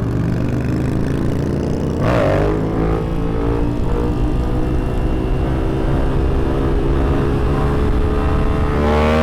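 Yamaha FZ-07's parallel-twin engine pulling on the highway. About two seconds in, a gear change drops the pitch, and then it climbs slowly as the bike accelerates, with wind rush underneath.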